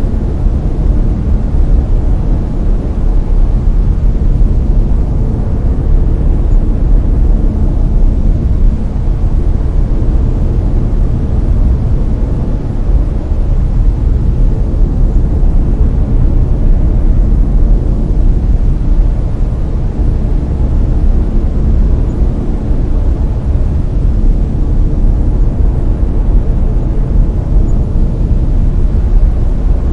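Layered brown noise: a steady, loud rushing hiss weighted heavily to the low end, deep like a distant jet or engine rumble, with no pattern or change.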